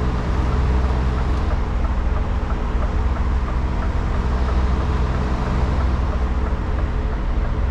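Articulated truck's diesel engine running steadily with a low, even hum.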